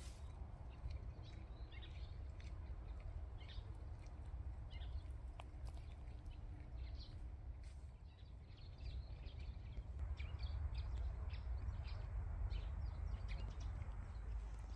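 Small birds chirping in short, scattered calls, over a low steady rumble.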